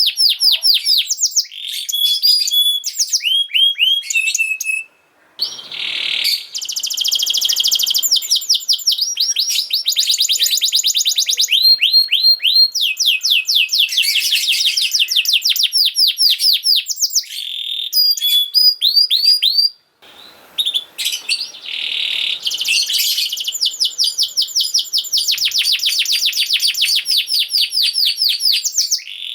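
Domestic canary singing: long, fast trills of rapidly repeated notes, each a quick downward sweep, changing from one repeated note type to another. The song breaks off briefly about five seconds in and again about twenty seconds in.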